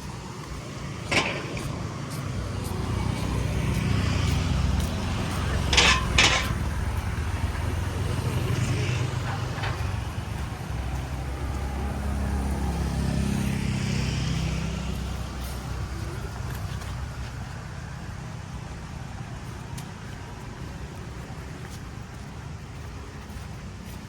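A motor vehicle's engine rumbling as it passes slowly, building over a few seconds and then fading away. Sharp clicks come about a second in and twice close together about six seconds in.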